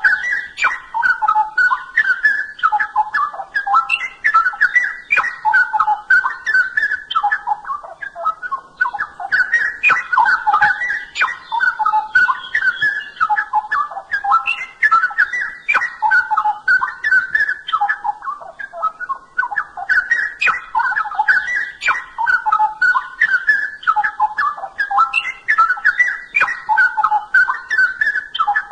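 Straw-headed bulbul (cucak rowo) singing loud, rich, fluty warbling phrases almost without pause, with short lulls about eight and eighteen seconds in.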